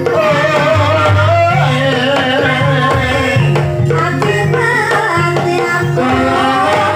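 Ebeg dance accompaniment: Javanese gamelan music with kendang hand drums and a singer's wavering, ornamented vocal line over held metallophone tones.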